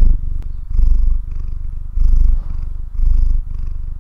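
Domestic cat purring: a fast, low, pulsing rumble that swells and falls about once a second, the louder stretches on the breath in and the softer ones on the breath out.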